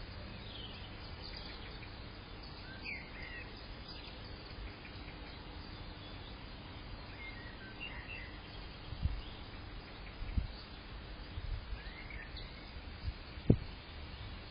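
A few short, faint bird chirps over steady outdoor background noise, with three brief low thumps in the second half, the loudest near the end.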